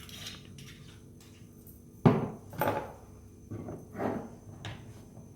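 A handful of hard knocks and clatters, the loudest about two seconds in, as the blender jug, its lid and the sound-enclosure cover are handled and set in place. The motor is not running.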